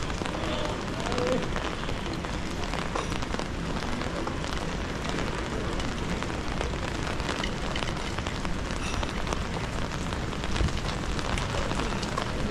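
Steady rain falling, a dense patter of many small drop ticks over an even hiss.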